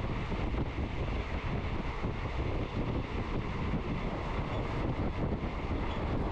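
Passenger train running, heard from inside the carriage at an open window: a steady rumble with wind rushing over the microphone.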